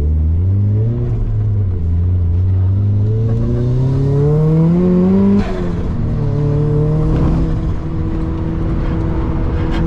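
Turbocharged Mazda MX-5 engine accelerating hard under full load through the gears. The pitch rises for about five seconds, drops sharply at an upshift about five and a half seconds in, then climbs again more slowly.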